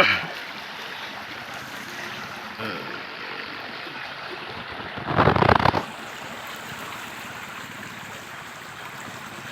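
Steady rush of a river running high in flood, with a brief louder burst of noise lasting under a second about five seconds in.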